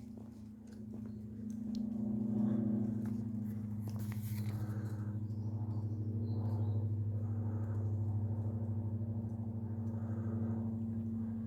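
A steady low droning tone with overtones, swelling in over the first couple of seconds and then holding, with faint light ticks over it.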